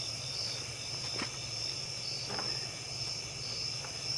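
A steady chorus of night insects, crickets chirping in a high band that swells and fades, with a couple of faint knocks about one and two seconds in.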